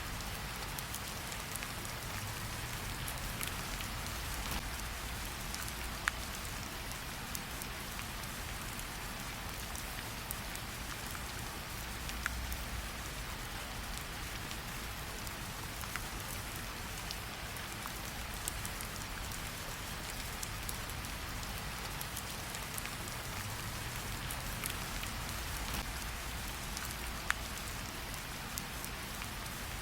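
Steady rain falling, mixed with a campfire crackling, with a few sharp pops spread through.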